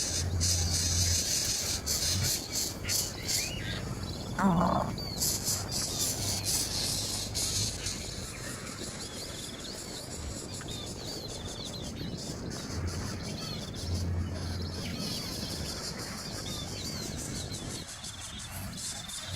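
Small birds chirping: many short, high chirps repeating over outdoor background noise, with one louder, lower call about four seconds in.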